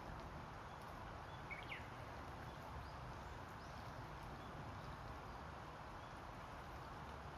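Faint, steady outdoor ambience, with one brief high chirp about one and a half seconds in.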